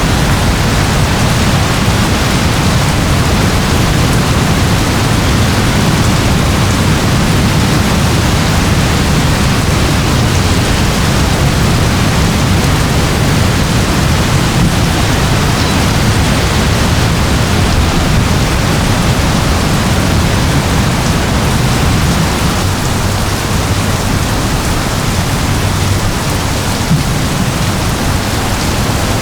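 Steady rainfall, an even hiss with a low rumble underneath.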